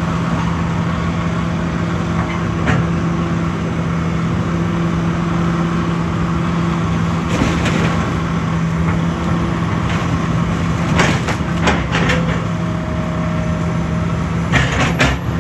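An engine running steadily at one constant pitch, with a few short knocks and clatters scattered through it.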